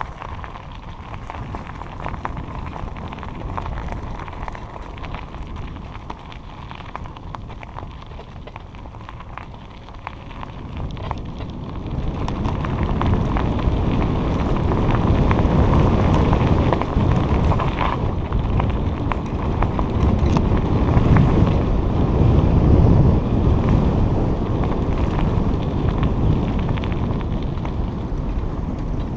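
Wind buffeting the microphone of a moving bike, mixed with the rolling noise of its tyres on the trail. The low rumble grows louder about twelve seconds in.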